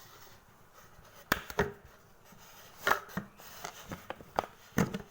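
Kitchenware being handled: about half a dozen sharp knocks and clacks as a blender jug of pureed beetroot is handled and emptied into a cup.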